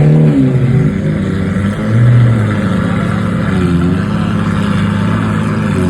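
Car engines revving at a car meet: a steady engine drone with several short revs that rise and fall, one right at the start, one about two seconds in and one a little before four seconds.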